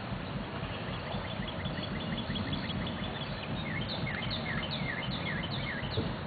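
A songbird calling over a steady rush of water noise. It gives a quick run of short chirps, then a series of sharper down-up chirps at about two or three a second. There is a single soft knock near the end.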